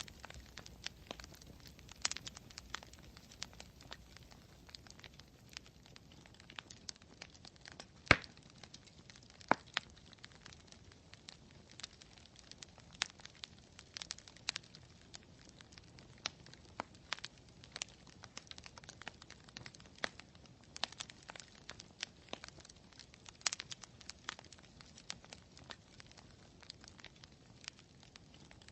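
Campfire crackling, with irregular sharp pops and snaps scattered over a low hiss; the loudest snap comes about eight seconds in.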